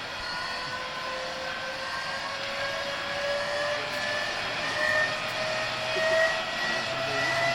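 Tiger I tank's hand-cranked inertia starter whining as its geared flywheel is wound up to speed, the pitch rising steadily throughout.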